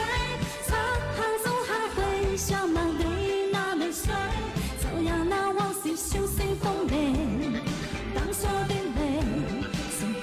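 Chinese pop music: a woman's singing voice carrying a wavering melody over full band backing with a steady beat.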